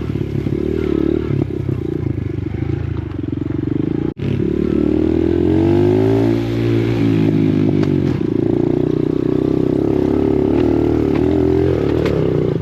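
Dirt bike engine running, its pitch climbing and then falling back midway through as the throttle is opened and closed, with a momentary break in the sound about four seconds in.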